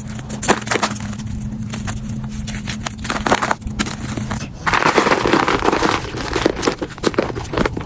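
Powdery gym chalk being crushed and crumbled, with scattered crackles and crunches over a steady low hum. Just over halfway in it turns into a louder, denser crunching.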